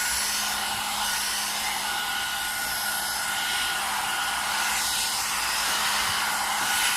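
Hot air brush (one-step hair dryer and styler) blowing steadily: an even rush of air with a faint low motor hum.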